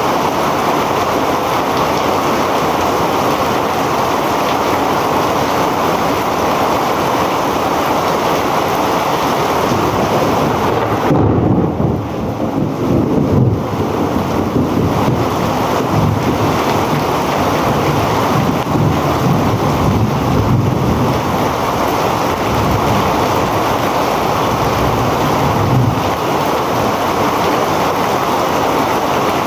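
Heavy rain falling steadily. A low rumble swells about a third of the way in and lasts around ten seconds, while the hiss of the rain thins for a moment.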